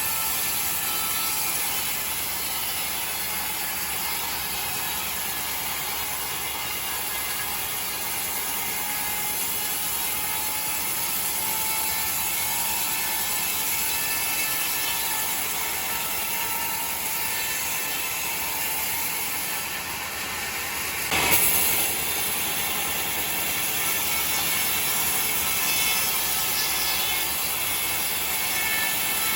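Sawmill saw running steadily with a constant mechanical noise, with one sharp knock about two-thirds of the way through.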